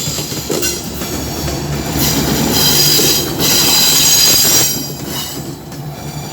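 Loaded coal gondola wagons rolling past with a steady rumble of wheels on rail, and high-pitched steel wheel squeal that comes in strongly about two seconds in for a second or so.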